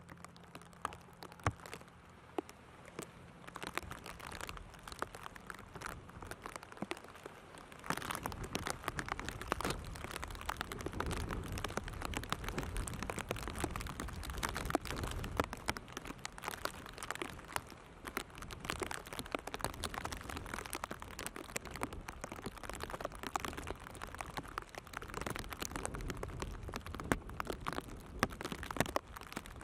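Rain pattering in dense, irregular drops with wind buffeting, much louder from about eight seconds in; a faint low hum lies under the first few seconds.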